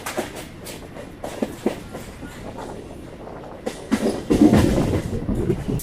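MEMU electric multiple-unit train running on the track, its wheels clicking and clattering over the rails. The rumble grows louder about four seconds in.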